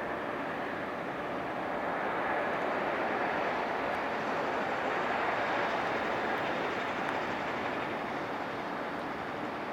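Airbus A330 jet engines and rushing air: a steady, even roar that swells a little in the middle and eases again near the end.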